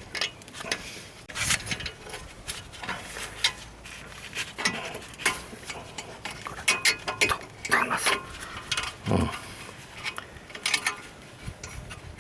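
Metal tools and brake parts clinking, clicking and rattling irregularly during hand work on a car's disc brake, busiest about two-thirds of the way through, with one duller knock near the end.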